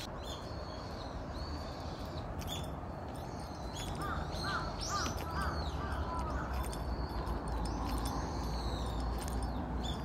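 Wild birds calling in woodland: short high chirps repeat throughout, and a run of four or five quick lower calls comes about four seconds in, over a low steady rumble.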